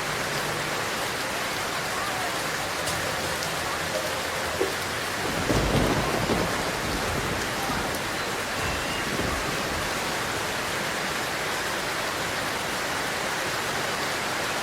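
A steady hiss like rain or a fan's rush, with a low rumble swelling up about five and a half seconds in and fading by seven seconds.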